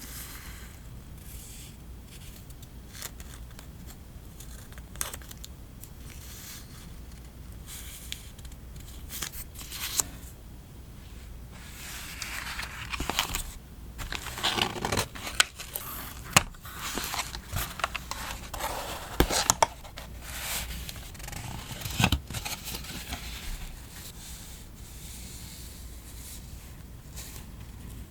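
Scissors snipping through paper and stickers being peeled off their backing, in scattered sharp snips and short papery rips that come thickest in the middle stretch.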